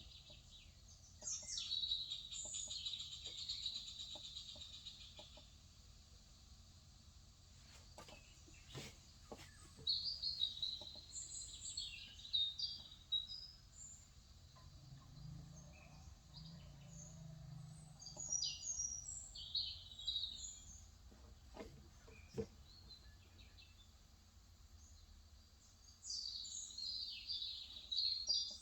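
Birds chirping in four short bouts of quick high chirps, with a few scattered clicks between them.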